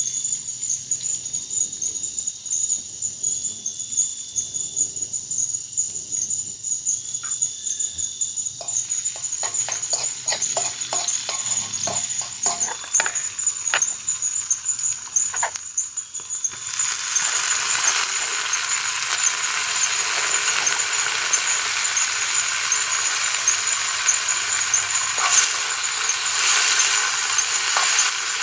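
Food frying in hot oil starts to sizzle loudly and suddenly about two-thirds of the way in and keeps going. Before it there is a steady high-pitched forest insect drone with short repeating calls, and a run of sharp crackles in the middle.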